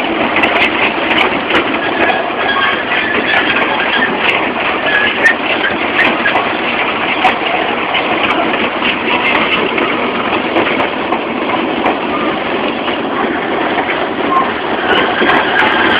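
Two-foot gauge train rolling along its track, heard from aboard an open passenger car: a steady rattling rumble with scattered sharp clicks.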